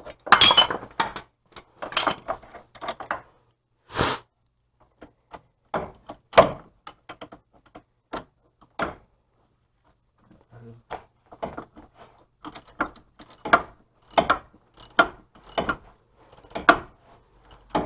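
Hand ratchet clicking in irregular short bursts, with a quiet pause in the middle, as the axle nut on a seized wheel hub is worked.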